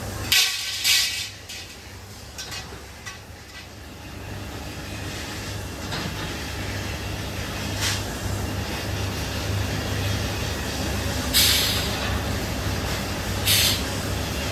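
Steady low machine hum with four short bursts of hissing: two near the start and two near the end.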